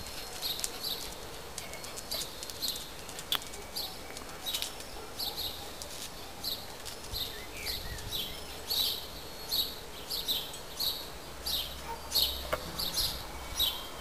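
A small bird chirping over and over, short high chirps coming about one or two a second, over faint outdoor background noise.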